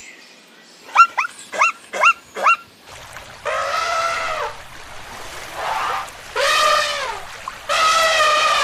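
An animal's calls: a quick run of about five short, sharp yelps, then three long calls of about a second each, arching in pitch.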